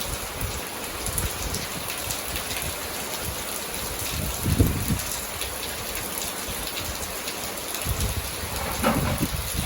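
Steady rain falling, an even patter throughout. A few brief low thuds come about halfway through and again near the end.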